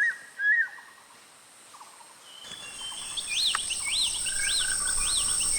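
Forest ambience of birds and insects. A few short bird chirps open it. From about halfway a steady high insect drone sets in, and a bird repeats a rising-and-falling whistled call about twice a second.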